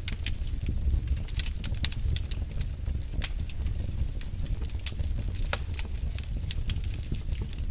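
Wood fire burning in a fireplace, crackling with frequent, irregular sharp pops over a low, steady rumble of flames.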